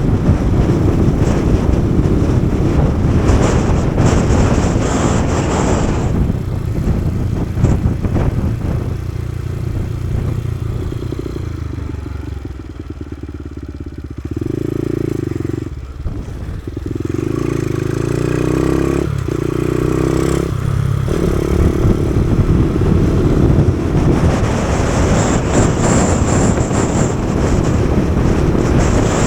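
Kawasaki KSR110's small single-cylinder four-stroke engine running on the move, heard under heavy wind rush on the microphone. Around the middle the wind eases and the engine note rises in steps with brief breaks, then the wind rush builds again.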